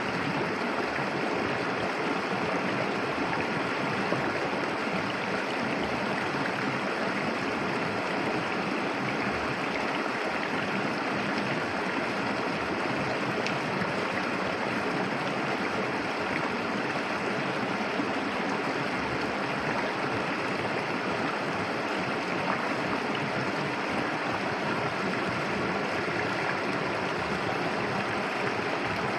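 A clear river flowing, a steady, even rush of water.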